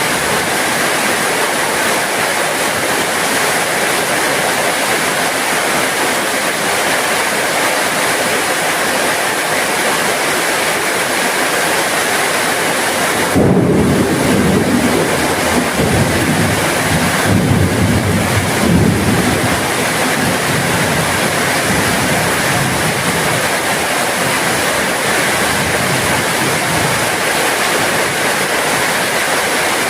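Steady heavy rain. A low rumble of thunder rolls in about halfway through and lasts about six seconds.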